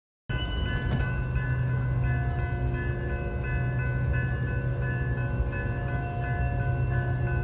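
Diesel passenger locomotive at a station, its engine running steadily with a high, steady whine over a low drone.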